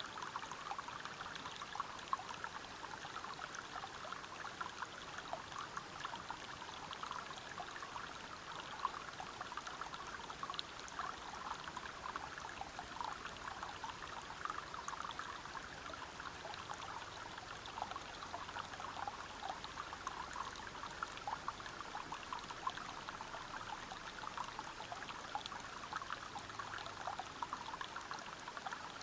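River water tumbling over rocks: a steady rush with many small splashes and gurgles throughout.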